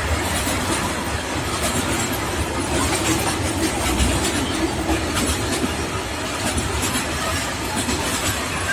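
Freight train passing on the rails: a steady rumble and rush of the wagons rolling by, with scattered clicks from the wheels.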